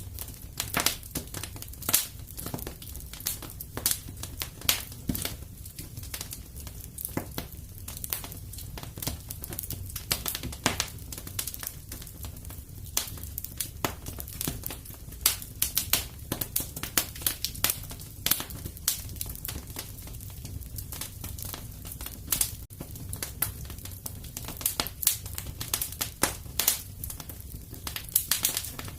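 Fire in a fireplace crackling, with many irregular sharp pops and snaps over a low steady rumble.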